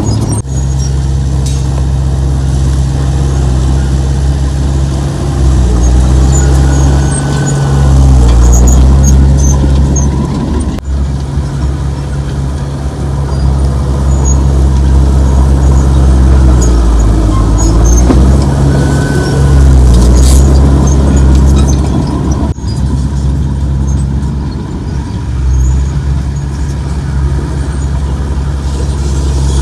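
Heavy diesel engine of earthmoving machinery running close by, its engine note rising and falling twice as the load changes, with faint high squeaks and ticks over it.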